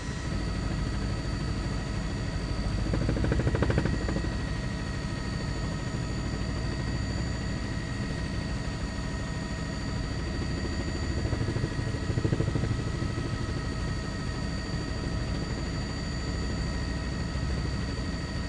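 News helicopter running: a steady low rotor-and-engine rumble with a fast pulse and a high turbine whine, swelling twice, about three seconds in and again near twelve seconds.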